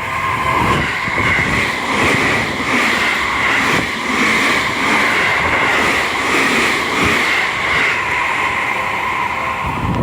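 Seibu 6000 series electric train passing at speed over a level crossing, its wheels clacking in a steady rhythm over the rail joints, with the crossing's warning alarm ringing. The sound stops abruptly as the last car clears, just after the end.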